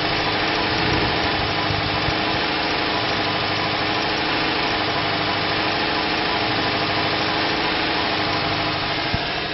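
2005 Dodge Ram 1500's 5.7-litre Hemi V8 running at a steady idle, dropping away near the end.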